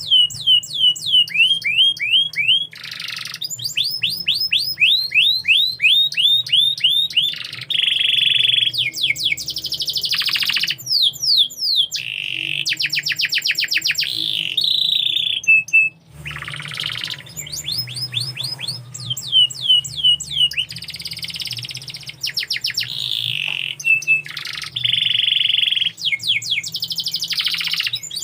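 Domestic canary singing a long, continuous song of rapid repeated falling whistles and fast rolling trills, changing phrase every second or two, with a brief pause about halfway through.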